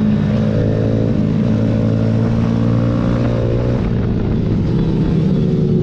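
Pit bike engine racing at high revs, a steady run with small shifts in revs near the start and about four seconds in.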